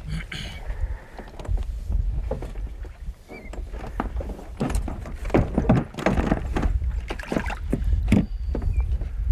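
A small boat on the water: short knocks and splashes against the hull, densest in the second half, over a steady low wind rumble on the microphone.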